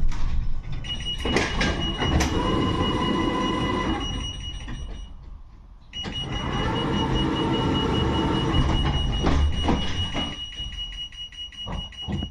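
Inside a 71-628-02 tram, the car's running rumble with a steady high-pitched whine in two long stretches, broken by a short lull about five seconds in. A few sharp clicks and knocks come near the end.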